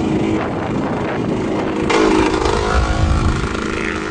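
Motocross dirt bike engines running, with a louder bike coming in about two seconds in.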